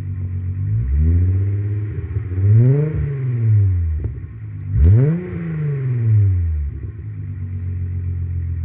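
1995 Volkswagen Passat's 2.8-litre VR6 narrow-angle V6 engine being revved twice, a slower rev about two seconds in and a quicker, sharper blip about five seconds in, each falling back before it settles to a steady idle.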